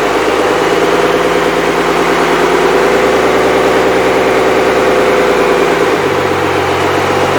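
Freshly rebuilt Cummins 5.9L 12-valve inline-six diesel running steadily at idle on its first run after the rebuild, with a slight shift in its low hum about six seconds in.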